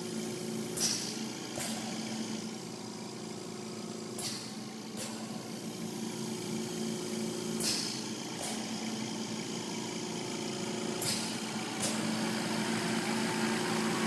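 A steady machine-like hum with pairs of short hissing clicks, the two clicks of each pair under a second apart and the pairs repeating about every three and a half seconds.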